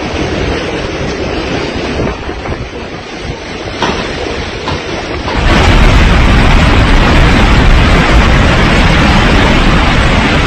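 Storm noise: a steady hiss of heavy rain and wind. About five and a half seconds in it cuts to a much louder rush, with wind buffeting the microphone and a deep rumble.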